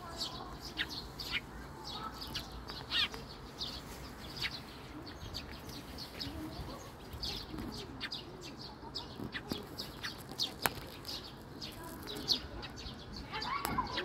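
Small birds chirping over and over from the hedge and trees, in short high chirps above a steady low city hum. A single sharp click about ten seconds in.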